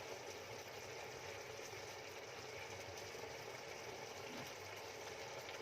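Faint, steady simmering of chicken adobo bubbling in a pan.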